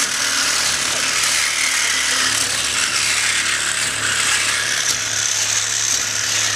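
Cutting torch running with a loud, steady hiss as it cuts through metal on the chiller.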